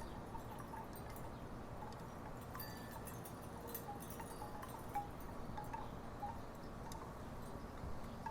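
Wooden tiki wind chimes knocking together in a light breeze: short, hollow, irregular clonks over a steady low background hum.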